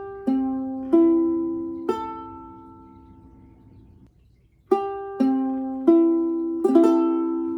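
Solid-wood long-neck soprano ukulele, tuned GCEA, plucked note by note in two groups of four. Each note is left to ring and fade slowly, showing its sustain.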